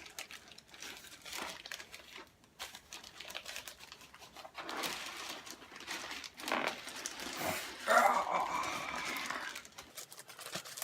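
Packaging crinkling, rustling and tearing as a shipping package is opened by hand, in irregular bursts that get louder and busier in the second half.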